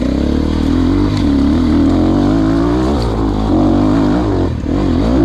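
Enduro motorcycle engine revving hard under load, its pitch rising and falling again and again as the throttle is worked, with a brief drop-off about four and a half seconds in.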